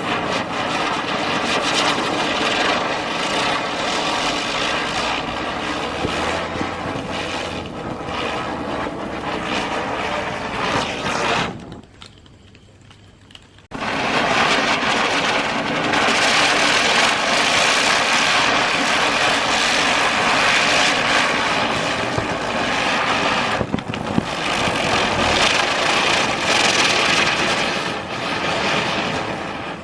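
Spinner firecrackers burning with a loud, steady hiss. The first burns out about twelve seconds in, and after a short lull a second one starts and hisses to the end.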